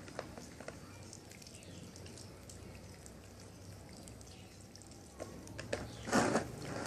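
Kitchen food-preparation handling sounds: scattered small clicks and knocks, with a brief louder rush of noise about six seconds in.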